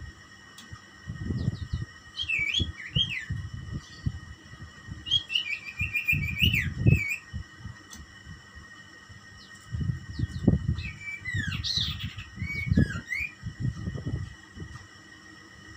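A small songbird chirping in three short bursts of quick twittering notes and brief rising and falling whistles, over irregular low rumbling.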